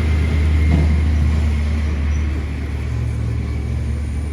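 A heavy loaded truck's engine running with a deep steady hum as it passes, loudest about a second in and then slowly fading.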